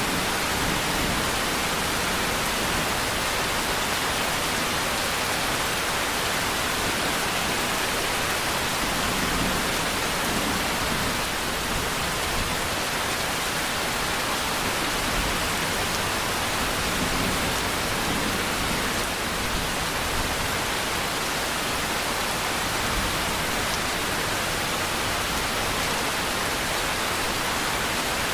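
Steady rain: a dense, even hiss with no separate drops standing out and no thunder.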